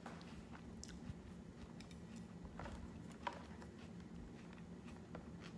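A person chewing a mouthful of poke, raw marinated fish and salad greens, with the mouth closed: faint, soft chewing with a few small clicks.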